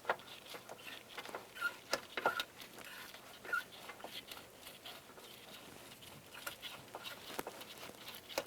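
Light handling noise: scattered small clicks and rustling, with a few short squeaks in the first half, as a brake line and wire are worked through the inside of a car door.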